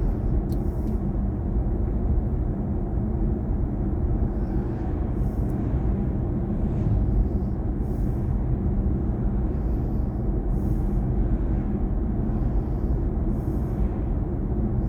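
Steady road and tyre rumble inside the cabin of a BMW i4 M50 electric car on the move, with faint brief hisses every two to three seconds.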